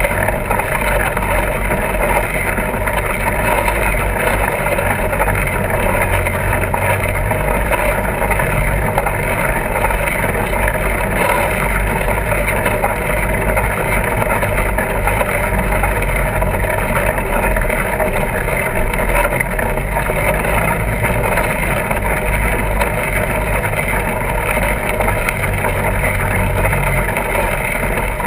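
Steady rush of wind on the microphone and rolling noise from a fat-tire bike being ridden, running evenly with no distinct knocks or changes.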